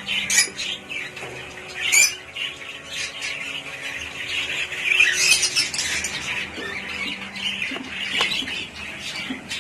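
A room of caged lovebirds and budgerigars chattering continuously, with sharp squawks standing out about half a second and two seconds in, and a busier stretch of chatter around the middle.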